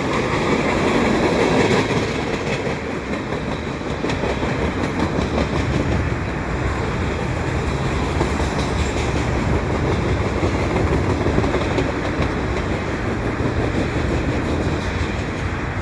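CSX freight train cars rolling past, with steady wheel-on-rail noise and clatter.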